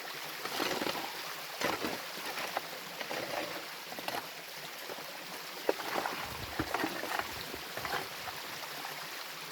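Mountain stream running steadily over rock, with a few scattered light knocks and scrapes of stone.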